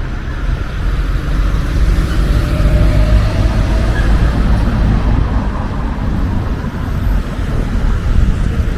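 Tram running on a city street, a steady low rumble.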